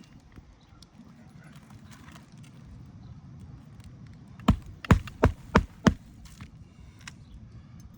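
Hammer driving a 1¼-inch roofing nail into an asphalt shingle: five sharp strikes in quick succession, about four and a half seconds in.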